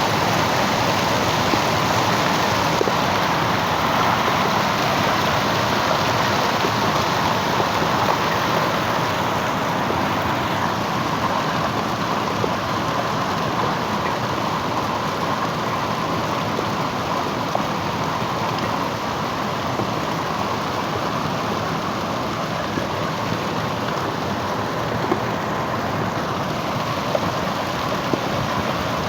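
Hailstorm: hail and rain pelting down in a dense, steady hiss, with scattered sharp ticks of stones striking. It eases slightly after the first several seconds.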